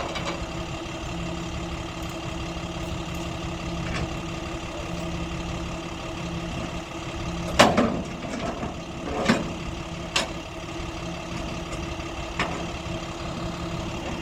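Truck engine idling steadily, with a few sharp knocks or clanks around the middle, the loudest two about a second and a half apart.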